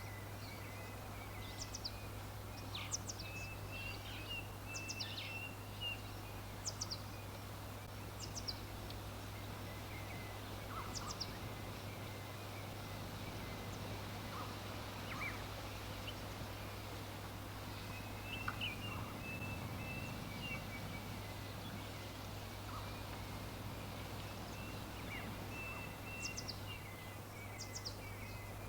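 Wild birds chirping: short, high, sweeping notes and lower twittering calls, thinning out in the middle, over a steady low hum and an even background hiss.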